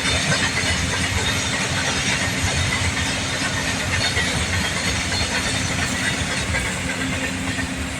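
A train running past on the track: a steady rumble and rattle of wheels and wagons, easing off slightly near the end.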